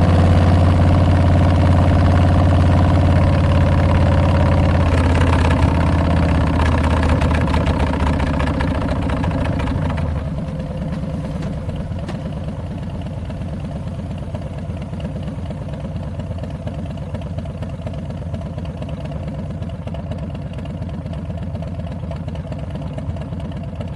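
Harley-Davidson Milwaukee-Eight 114 V-twin running through Tabs Performance slip-on mufflers with Zombie Baffles. It runs steadily at first, then drops to a quieter, lower-revving beat about ten seconds in and settles into an even idle.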